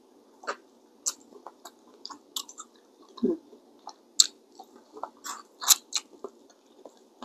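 Eating seafood boil up close: wet chewing and mouth smacks, heard as a run of short, irregular clicks.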